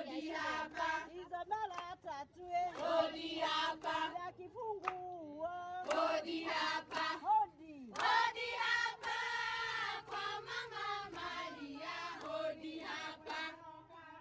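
A group of women singing a Kikuyu traditional song together in chorus, several voices overlapping, with short breaks between phrases.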